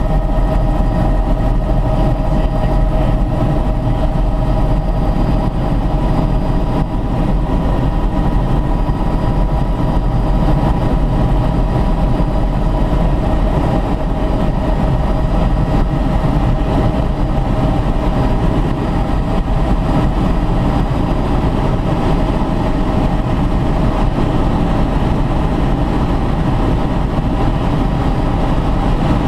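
Helicopter cabin noise: a steady low drone from the engine and rotor, with a constant whine from the transmission layered over it.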